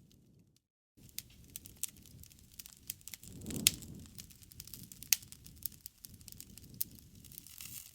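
Wood campfire crackling: irregular small snaps and pops over the low rush of the flames, with one louder pop a little before halfway. The sound cuts out completely for a moment about half a second in.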